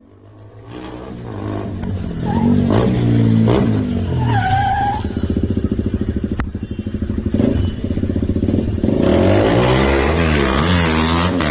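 KTM single-cylinder motorcycle engines revving, the pitch repeatedly rising and falling, fading in at the start. A brief higher tone sounds around the middle, and a sharp click about six seconds in.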